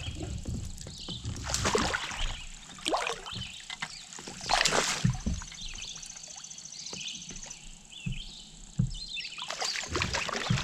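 Water splashing in bursts at the side of a kayak as a hooked largemouth bass is fought in on the line.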